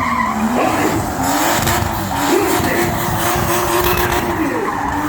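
A Lexus with a 2JZ straight-six engine drifting: the engine is held high in the revs, its pitch wavering and dipping briefly with the throttle, over continuous tyre squeal.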